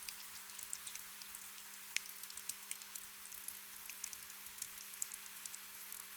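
Gentle rain, a soft hiss with many scattered individual drops ticking and pattering, over a faint steady low hum.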